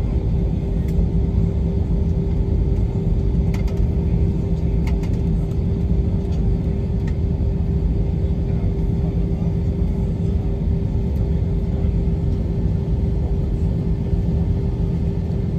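Steady jet engine and airflow rumble heard inside the cabin of an Airbus A321 airliner, with a constant hum running through it and a few faint clicks.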